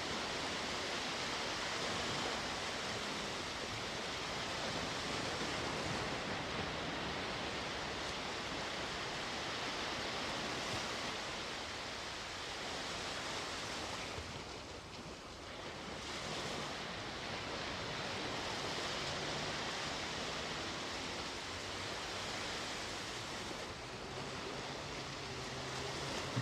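Sea waves washing onto the shore in a steady rush of surf, easing briefly about halfway through before building again.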